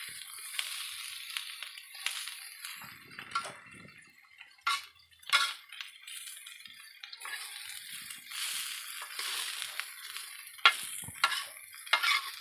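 Tempe with shallots and garlic frying in a black pan, with a steady sizzle, while a metal ladle stirs and scrapes the pan, giving sharp clinks and scrapes in a cluster around the middle and again near the end.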